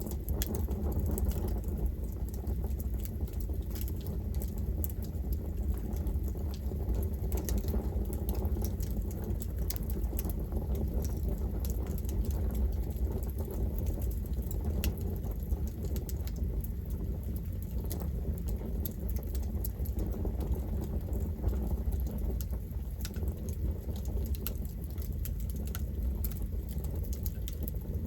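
Wood fire burning, with frequent small crackles and snaps over a steady low rumble of the flames.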